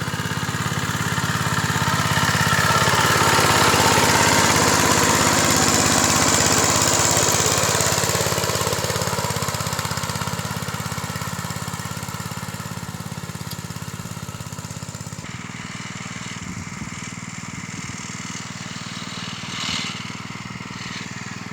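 Engine of a single-wheel tractor running steadily. It grows louder over the first few seconds, is loudest about four seconds in, then fades to a lower steady level.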